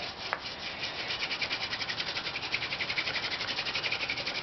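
Sotol spindle being spun by hand in a sotol hearthboard socket, wood grinding on wood in a fast, even rhythmic rub as the friction builds up powder in the notch.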